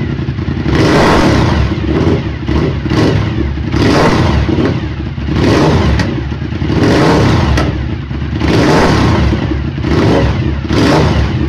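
Suzuki SV1000S V-twin engine running through a new exhaust, blipped to rev repeatedly, about eight short revs a second or so apart, dropping back to a lumpy idle between them.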